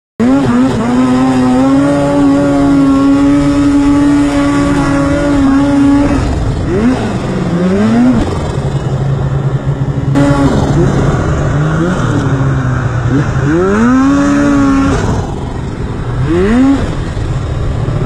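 Turbocharged two-stroke mountain snowmobile running hard. It holds high revs for about six seconds, then rises and falls again and again as the throttle is worked on and off.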